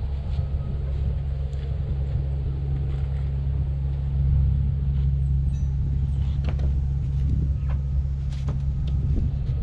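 Cement mixer running with a steady low hum, with a few faint knocks on top.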